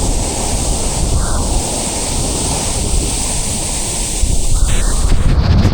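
Waterfall rushing in a steady, loud roar, with wind buffeting the microphone; near the end the high hiss drops away and a deeper rumble comes forward.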